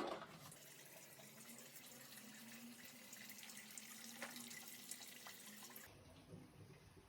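Faint running water from a tap, with a few small clicks, and an abrupt change in the sound near the end.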